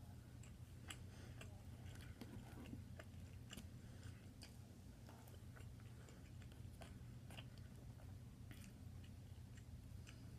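Faint chewing of food: irregular soft mouth clicks and smacks, over a steady low hum.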